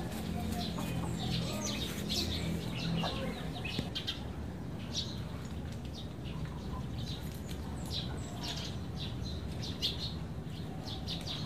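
Birds chirping in short, scattered calls over a steady low background hum, the hum strongest in the first few seconds.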